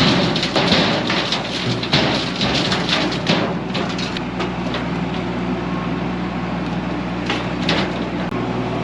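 Solis H24 compact tractor's diesel engine running steadily, with repeated rattles and knocks over it, mostly in the first few seconds and again near the end.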